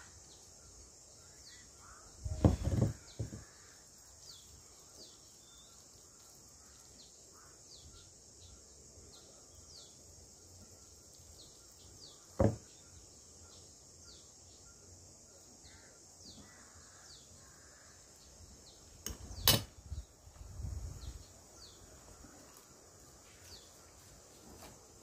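A bird giving short, falling chirps over and over, more than once a second, over a steady high hiss, with a few sharp knocks: one about two and a half seconds in, one near the middle and one about three-quarters of the way through.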